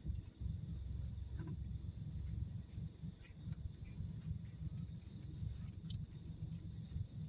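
Crickets and other night insects trilling steadily, with a few faint short chirps, over a constant uneven low rumble.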